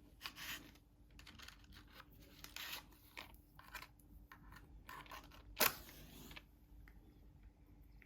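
Irregular short scratchy rustles and light taps, with one sharp click about five and a half seconds in, like small objects or paper being handled at a desk.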